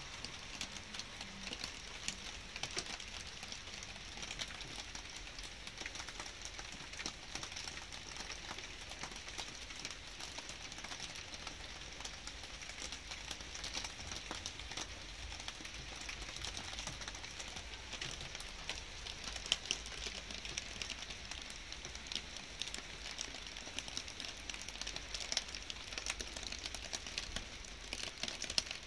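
Light rain falling: a steady patter with many separate close drops ticking throughout.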